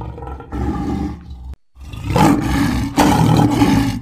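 Loud, rough roaring growls from a big cat: weaker calls first, then a brief silence and two loud roars in the second half.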